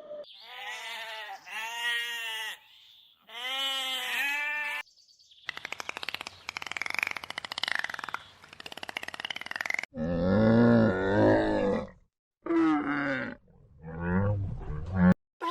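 A run of animal calls. First come two groups of high-pitched, rising-and-falling calls. Then a long rasping growl and deep roars typical of a big cat follow about halfway through, and several shorter calls come near the end.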